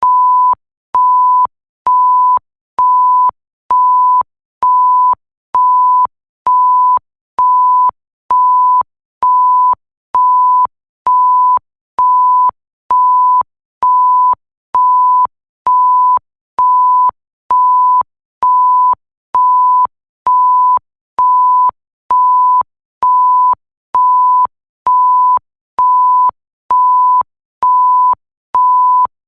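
Electronic bleep sound effect: one steady, pure, high tone sounding in short beeps about once a second, each a little over half a second long with a faint click as it switches on and off.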